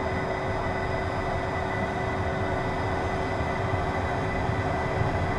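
Steady cockpit noise of a Beechcraft Premier 1 taxiing: its twin jet engines at idle give an even hum with a constant whine.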